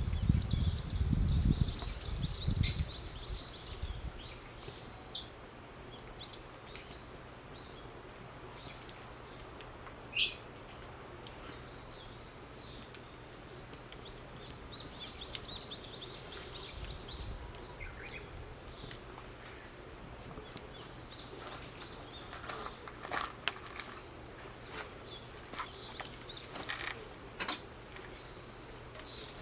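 Wood fire crackling in a camp fire pit, with occasional sharp pops, while small birds chirp in short bursts. There is a low rumble in the first few seconds.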